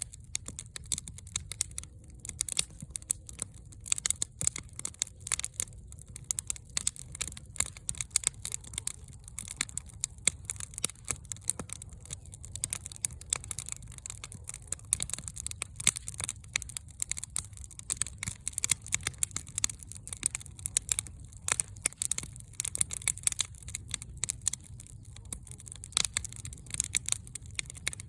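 Fire crackling: a dense, irregular run of snaps and pops over a low, steady rumble.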